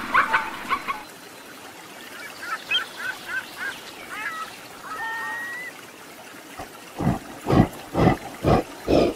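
A zebra's call ends in the first second. Then a gull gives a run of short calls and one longer held note. From about seven seconds in, a gorilla makes a series of low, evenly spaced sounds, about two a second.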